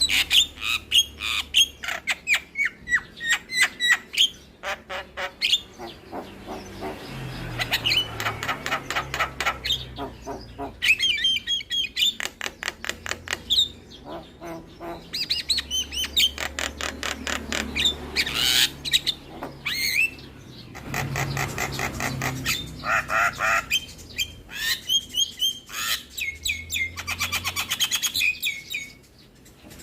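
Javan myna (jalak kebo) singing a loud, varied song: runs of fast chattering notes and harsh squawks mixed with clear whistled phrases, broken by short pauses.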